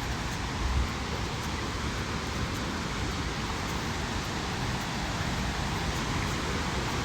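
Steady rush of water from a waterfall and its stream running high with floodwater, with an uneven low rumble underneath and a brief louder thump under a second in.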